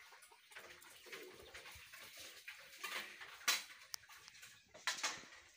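Quiet outdoor ambience with faint bird calls and a few brief scuffs or knocks.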